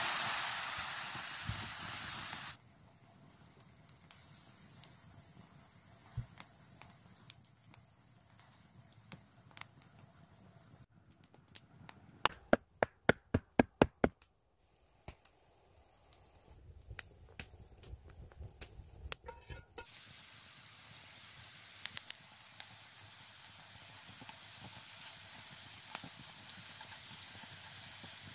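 Beer poured into a hot pan over a campfire hisses loudly for about two seconds, then cuts off. Quiet fire crackle follows, with a quick run of about eight sharp knocks near the middle. From about two-thirds of the way in, potato chunks in oil in a cast-iron skillet sizzle steadily.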